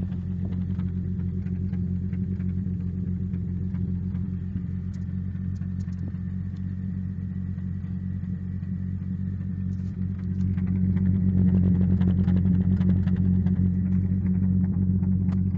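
Exhaust note of a 1949 Dodge Meadowbrook's flathead straight-six running steadily through a new stainless steel exhaust system, a low even rumble that grows louder about ten seconds in.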